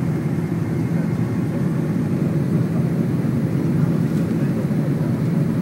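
Steady low rumble of an airliner's engines and airflow heard from inside the passenger cabin during takeoff.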